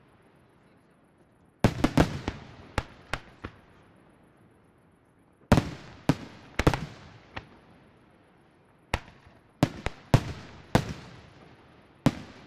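Aerial firework shells bursting: three volleys of several sharp bangs each, every bang trailing off in a rolling echo, with short lulls between volleys.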